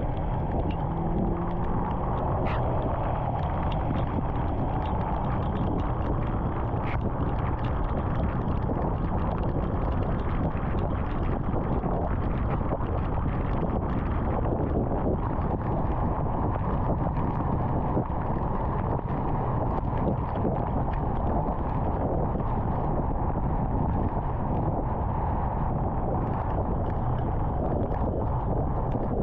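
Steady road and wind noise of a car travelling at highway speed, with many faint short ticks throughout.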